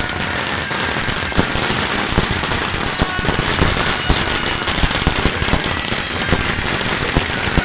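A long string of firecrackers going off in a rapid, continuous crackle of bangs.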